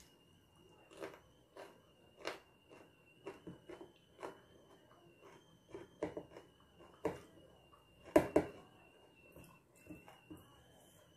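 Close-up eating sounds of a person eating rice and fried fish by hand: irregular chewing, lip-smacking and mouth clicks, the loudest pair about three-quarters of the way through, over a faint steady high whine.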